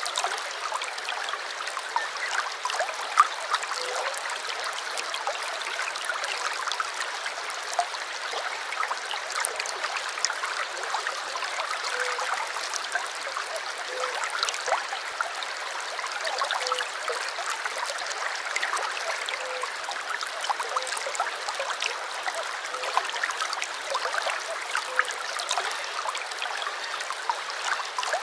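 Small brook running steadily, trickling and gurgling, with many tiny splashes and drips.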